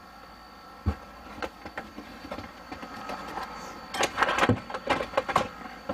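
Handling and knocking of tools while a hammer is fetched: one sharp knock about a second in, then a run of clattering and clicks around four to five seconds, over a steady hum.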